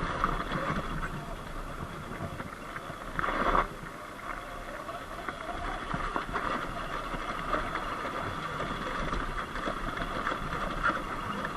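Surron Light Bee electric dirt bike riding up a dirt road: steady tyre and riding noise with no engine note, and a brief louder burst of noise about three seconds in.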